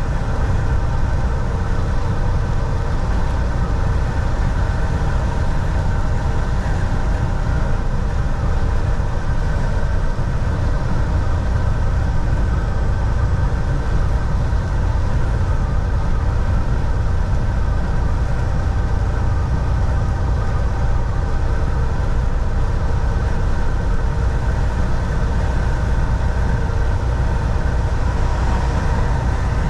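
Volvo VNL 760 semi truck's diesel engine and road noise heard from inside the cab: a steady low rumble with a few faint steady whining tones above it.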